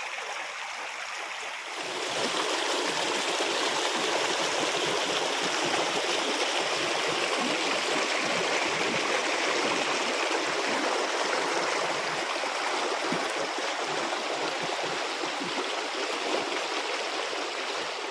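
Stream water rushing and gurgling over rocks, a steady flow that grows louder about two seconds in.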